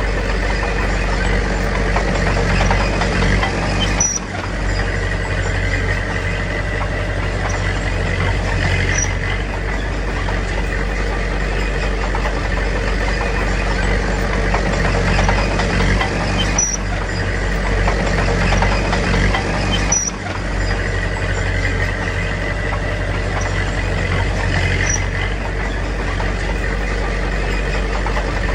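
Komatsu D21P bulldozer's diesel engine running steadily under work, with brief dips in loudness about 4 and 20 seconds in.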